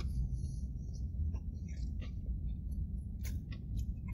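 A person chewing a bite of a fried chicken sandwich, with small wet mouth clicks, over a steady low rumble.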